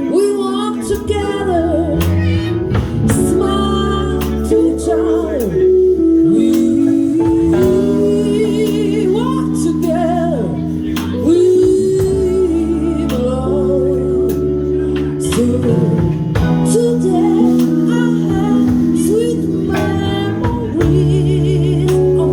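Live jazz jam-session band with bass guitar, keyboards and drums playing under a wordless melody that slides between notes with a wide vibrato.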